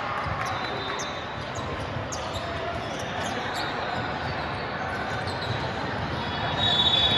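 Indoor court game sounds: a ball repeatedly hitting the floor and hands, with short squeaks of shoes on the court and voices calling across the gym.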